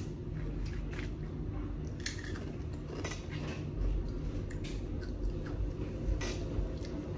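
Eating sounds: chewing with scattered short crunches and clicks, over a steady low background hum.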